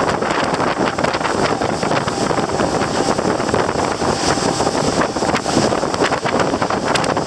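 Steady loud rush of wind buffeting the microphone aboard a moving river tour boat, with the boat's running noise underneath.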